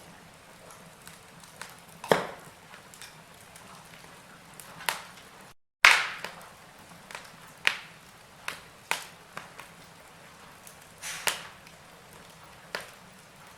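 Wood fire in a fireplace crackling: irregular sharp snaps and pops, several a few seconds apart, over a faint hiss of burning. The sound cuts out to silence for a moment a little under halfway through.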